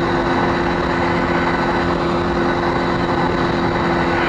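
Motorcycle engine running at steady revs while riding, under a constant rush of wind noise.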